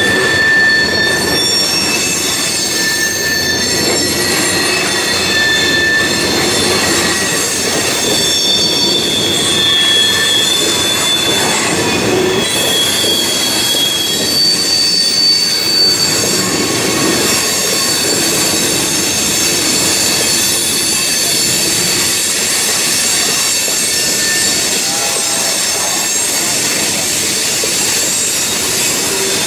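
Loaded coal cars of a freight train rolling past, with a steady rumble of steel wheels on the rails. Several high-pitched wheel-squeal tones come and go throughout.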